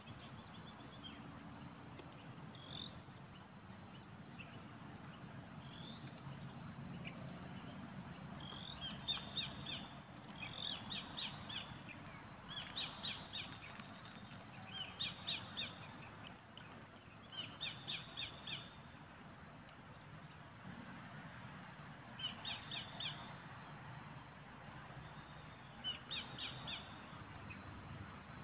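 A bird calling in short, high runs of about four to six quick notes, repeated every two to three seconds, with a few single notes before the runs begin. A thin steady high tone and a low hum run underneath.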